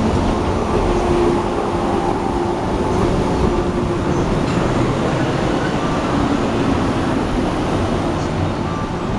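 Electric commuter train pulling into the station and rolling slowly along the platform, wheels and running gear making a steady noise with a faint low hum, easing off a little near the end.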